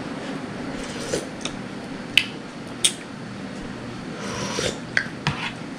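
Utensil sounds while eating soup: a few sharp clinks of a spoon against a bowl and a short scrape, over a steady low hum.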